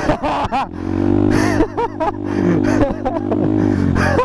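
Motorcycle engine running at a steady speed, settling in about a second in, with short bursts of voice over it.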